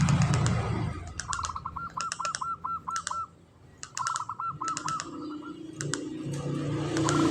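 Zebra dove (perkutut) singing its rapid rattling 'ngretek' coo: two quick runs of repeated looping notes, about five a second, and a shorter run near the end, with sharp high chirps over them. A low rumble sounds at the start and again from about six seconds in.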